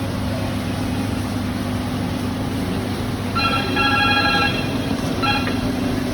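Steady hum of ship engine-room machinery. A pitched, multi-tone signal sounds for about a second a little past the middle and again briefly near the end.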